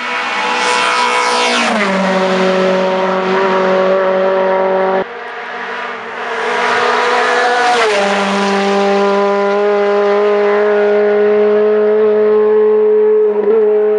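Hillclimb race cars passing at speed under hard throttle, one after another: each engine note drops in pitch as the car goes by. The sound cuts off abruptly about five seconds in, before the second car comes through.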